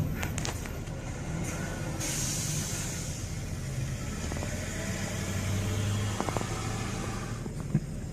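Motor vehicle on the road: steady engine and road noise, with a hiss that starts about two seconds in and a few light knocks near the end.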